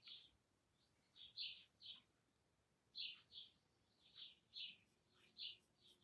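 A bird chirping faintly: short high chirps, about ten of them, in irregular pairs and threes.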